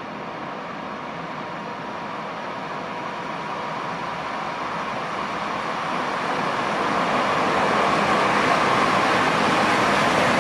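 A train approaching on the line, its rushing noise growing steadily louder.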